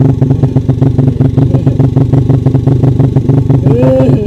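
Trail motorcycle engine running loudly and steadily, with an even, rapid chugging beat.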